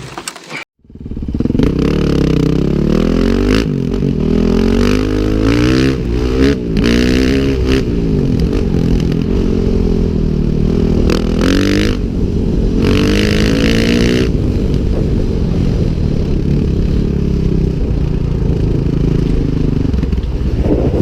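Motorcycle engine running hard and revving, its pitch repeatedly climbing and falling as it accelerates and changes gear. It begins after a short break in the sound under a second in.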